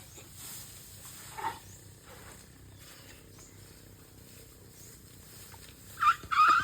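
Baby elephant calling with high squeals: a short one about a second and a half in that drops in pitch, then a louder, longer squeal near the end.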